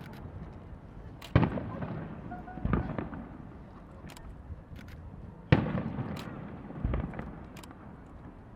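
Aerial fireworks shells bursting overhead: two sharp reports about a second and a half and five and a half seconds in, duller booms between them, each fading off slowly, with scattered crackling pops.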